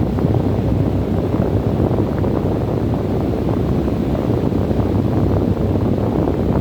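Steady desert wind, a low, full rushing with the gusts buffeting the microphone and faint crackles of sand or debris.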